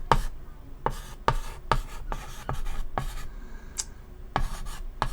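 Chalk writing on a chalkboard: a series of short, irregular taps and scratchy strokes, with a brief high squeak about four seconds in.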